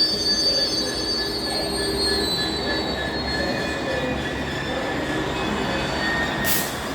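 Squeaky brakes on a freight train hauled by a Class 66 diesel locomotive, squealing in several steady high tones over a low rumble as it moves slowly through the station. A brief hiss comes near the end.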